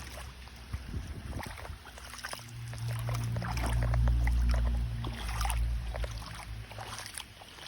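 Rain and wet footsteps tapping outdoors, with a low engine hum that builds to its loudest about four seconds in and then fades away.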